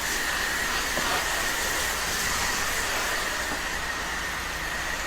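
Pressure washer wand spraying the soft-wash soap mix downstream: a steady hiss of water spray with a thin, steady high tone over it.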